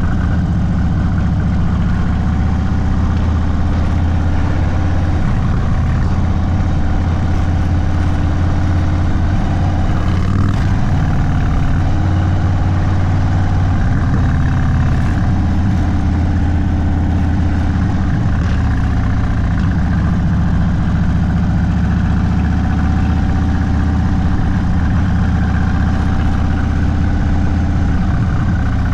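Indian Sport Chief's V-twin engine running at low, fairly steady revs through an aftermarket Sawicki Speed exhaust.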